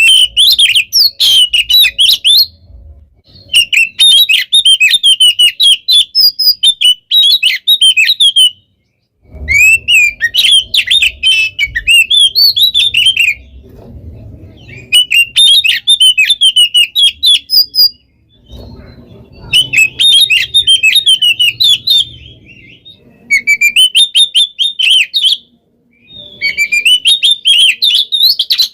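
Oriental magpie-robin (kacer) singing loudly in long bursts of fast, varied whistles and trills, with short pauses between phrases.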